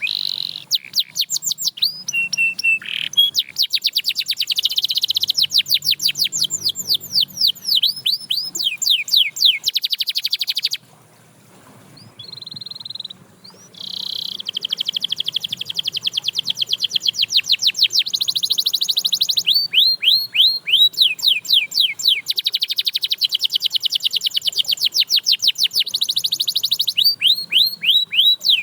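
Domestic canary singing: long runs of fast, repeated down-slurred notes, broken about halfway by a short pause and a brief held whistle, then more rapid trills.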